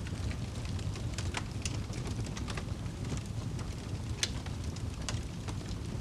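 Wood fire crackling, with irregular sharp pops over a steady low rumble; the loudest pop is about four seconds in.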